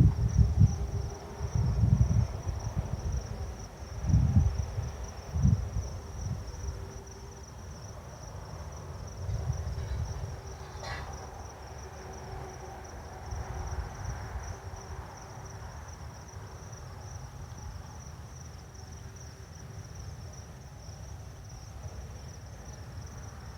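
Crickets chirring in one steady, high, continuous drone, with low rumbling that comes and goes over the first ten seconds.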